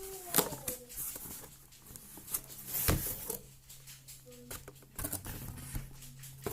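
Someone handling and unpacking a boxed cordless tool kit: scattered clicks, taps and rustles of packaging and plastic. A steady low hum comes in about halfway through.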